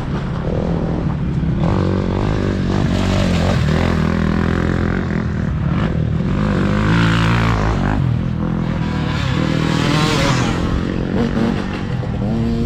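Several motocross dirt bike engines running and revving together, their pitches rising and falling.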